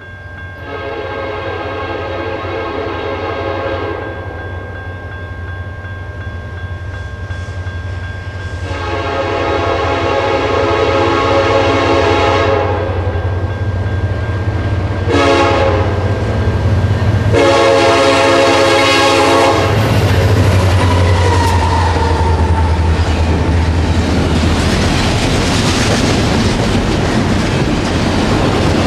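Union Pacific SD70ACE diesel locomotive approaching a grade crossing and sounding its air horn in the crossing pattern: long, long, short, long, over the low drone of its engine. About twenty seconds in, the locomotive reaches the crossing and the double-stack intermodal train rolls past, its wheels clattering over the rail joints, louder as it comes.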